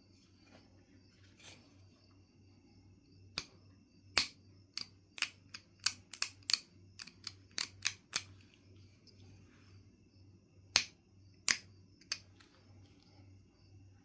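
Sharp clicks and snaps of flakes coming off Knife River Flint as it is knapped into a point. About fourteen come in quick succession from about three seconds in, then three more spaced out, over a faint steady hum.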